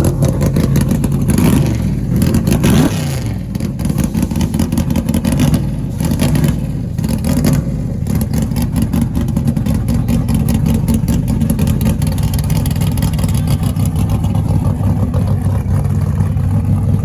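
Loud truck engines running with a heavy low rumble, revved up and down between about one and three seconds in.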